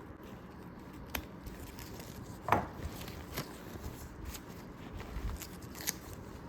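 A handful of sharp clicks and knocks from objects being handled, the loudest about two and a half seconds in, over faint room tone.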